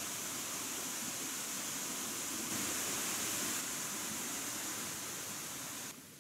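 Steady, even hiss-like noise with a strong high-pitched band, a little louder in the middle, that drops off suddenly near the end.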